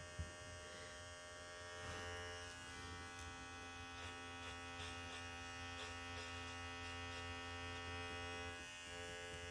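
Large electric pet grooming trimmer running with a steady, faint buzz.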